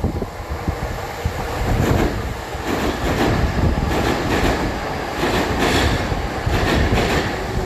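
Electric train running alongside the platform, a steady rumble with its wheels clacking over rail joints about twice a second from about two seconds in.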